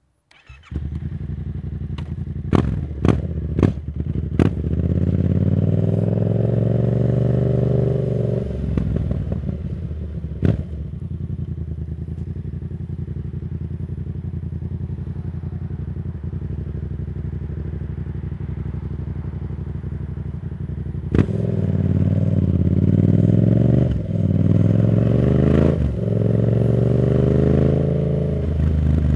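Yamaha MT-07's parallel-twin engine through a Black Widow aftermarket exhaust, heard from the rider's seat. It gives a few sharp cracks in the first seconds, then revs climb, then it runs steady for a long stretch, then it pulls up again with two brief dips like gear changes near the end.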